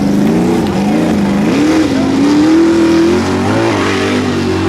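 Mega truck engine revving hard, its pitch wavering up and down and climbing to its highest about two and a half seconds in, then falling back and holding steady.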